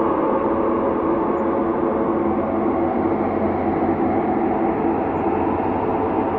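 Ambient space drone: several steady, held tones layered under a soft rushing noise, unchanging.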